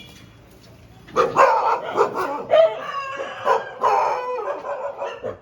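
Street dogs barking, a quick run of short, high barks and yelps starting about a second in and going on without a break.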